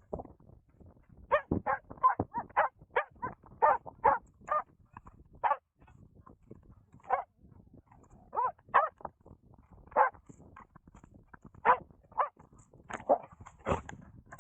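Dog barking repeatedly in short, irregularly spaced bursts.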